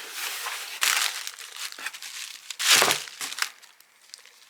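Packaging being opened by hand: plastic or paper wrapping crinkling and rustling in irregular bursts, with the loudest tearing rustle a little under three seconds in.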